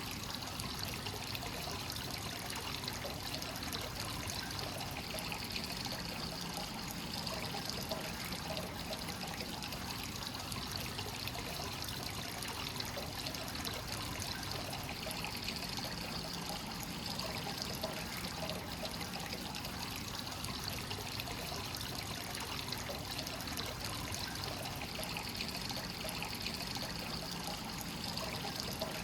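Hot-spring water pouring and trickling steadily into a rock bath from a continuous free-flowing source (kakenagashi), splashing onto the bath's surface. The flow is even, with the brighter splashing swelling slightly and fading every several seconds.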